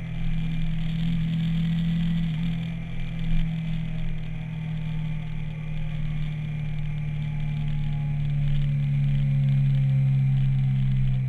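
Twin-cylinder touring motorcycle engine running steadily under way, with a haze of wind and road noise; the engine note sinks slightly lower in the second half. A brief bump about three and a half seconds in.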